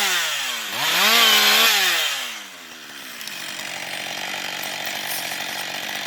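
Husqvarna 560XP two-stroke chainsaw revving up to high speed once for about a second and a half, then dropping back to a steady idle.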